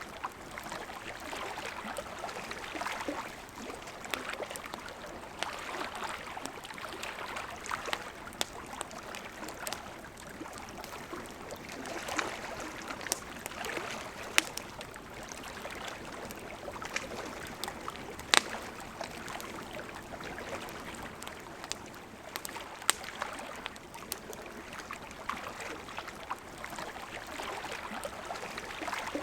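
Campfire crackling, with sharp scattered pops, over the steady rush of a flowing river.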